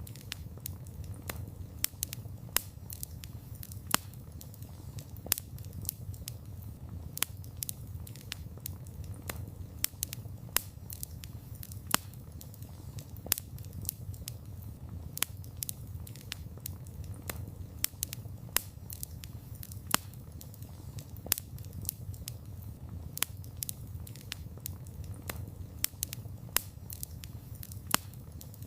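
Wood fire burning: a steady low rumble with frequent sharp, irregular crackles and pops, several a second, a few of them louder.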